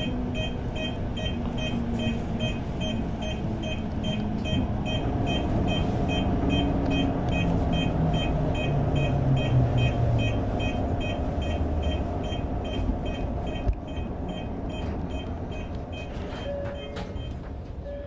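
Toyo Rapid Railway 2000 series electric train braking to a stop at a platform: the motor whine falls in pitch as it slows, with a single click shortly before the end. A high beep repeats about four times a second and stops near the end.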